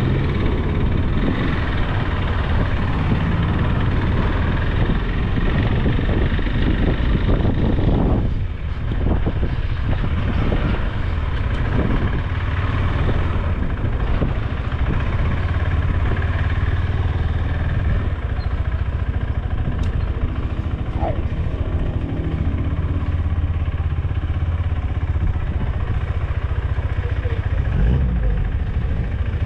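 Motorcycle engine running steadily while the bike is ridden, with a brief drop in the engine sound about eight seconds in.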